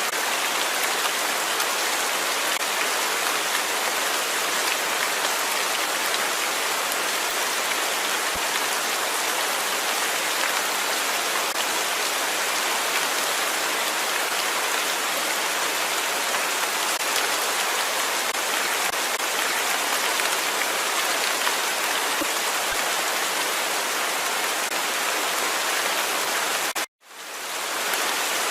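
Steady heavy rain hissing as an even wash of falling drops. Near the end the sound cuts out suddenly for a moment and fades back in.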